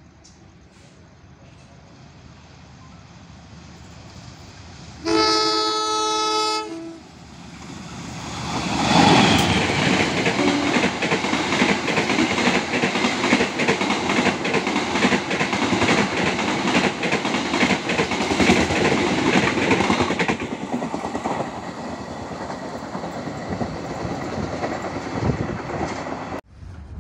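A passing Indonesian diesel locomotive sounds one long steady horn blast about five seconds in. The locomotive and its executive coaches then rush past close by for about twelve seconds, with a dense run of wheel clicks over the rails, and the rumble fades away near the end.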